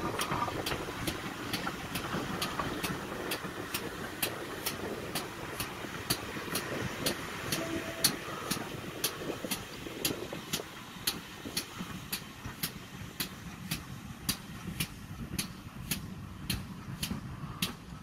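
Heritage train headed by a GWR pannier tank steam engine and a Class 17 diesel, running and drawing away: an engine-and-running rumble that fades after about ten seconds. A sharp tick repeats about twice a second and stands out more as the rumble dies down.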